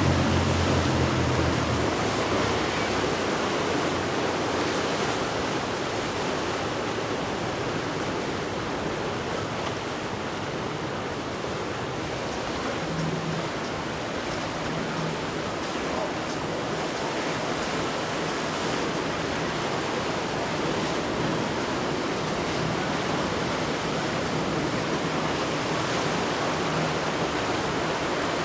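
A steady rush of surf and churning water. A boat's engine fades away in the first couple of seconds, and a faint low engine hum comes and goes in the second half.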